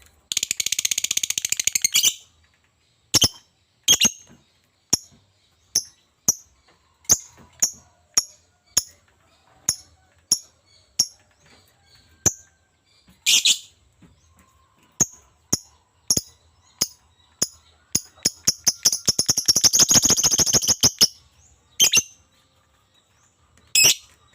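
Lovebird calling: a string of sharp, short, high chirps about one or two a second, broken by two longer spells of rapid chattering, one right at the start and one about 18 seconds in.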